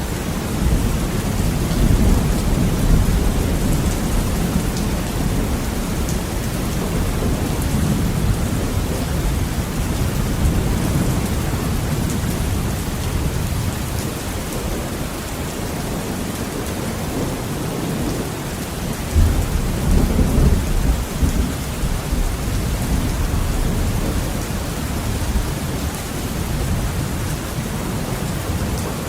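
Heavy rain beating on a window pane over a continuous low rumble of rolling thunder. The thunder swells louder about two-thirds of the way through, then settles back under the steady rain.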